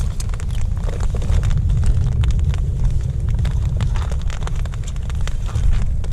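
Storm wind buffeting the microphone in a steady low rumble, with rain pattering in scattered sharp clicks.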